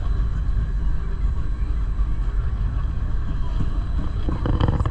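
Gornergrat rack railway train running: a steady low rumble, with a brief burst of voices near the end.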